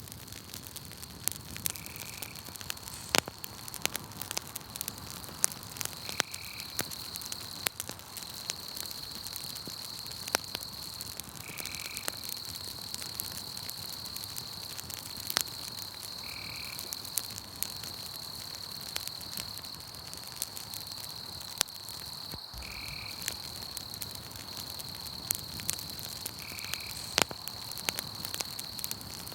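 Campfire crackling with frequent sharp pops, over a steady high trill of night insects and a short call that repeats every four to five seconds.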